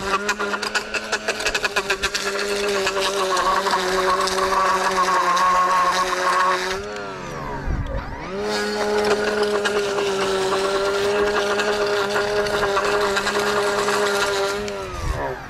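Small gas engine of a handheld lawn edger running at high throttle while edging, with rapid ticking through the first few seconds. About seven seconds in the throttle is let off and the engine drops in pitch, then it revs back up, and it dips again at the end.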